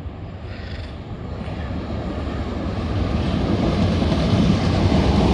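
A train approaching, its running noise growing steadily louder.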